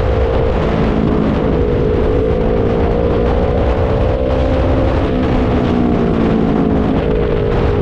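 Kawasaki Z300 parallel-twin engine running at a steady cruise during a ride, its pitch wavering slightly without any big rev.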